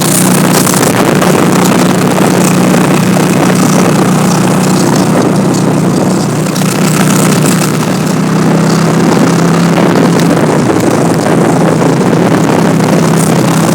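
Motorcycle engine running steadily while riding, its pitch holding level and dropping slightly about halfway through, over a rushing noise.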